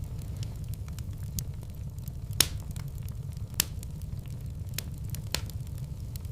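Wood fire burning in a fireplace: a steady low rumble of the flames with scattered crackles and two louder pops, about two and a half seconds in and again about a second later.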